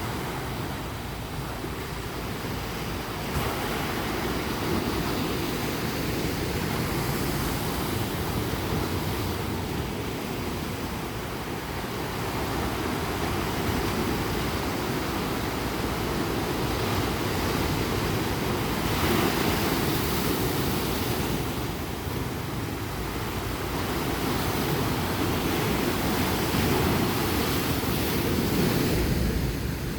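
Ocean surf breaking and washing up a beach: a steady rush that swells and eases, with the loudest surges about a third of the way in, around the middle and near the end.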